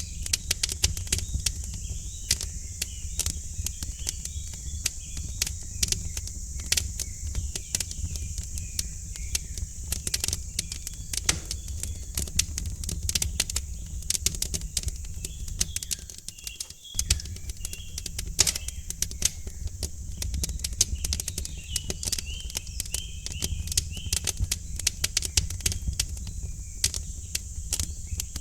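Wood fire in a fireplace crackling, with a dense, irregular run of sharp pops and snaps over a steady low rumble and hiss. Birds chirp faintly in the background, most clearly early on and again near the end.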